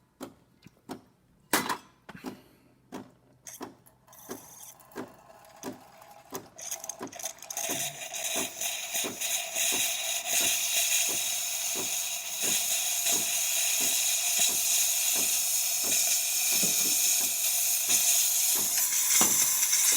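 De'Longhi Magnifica espresso machine's steam wand building pressure. Regular clicking pulses come about twice a second, and from about seven seconds in steam hisses steadily out of the wand, growing louder.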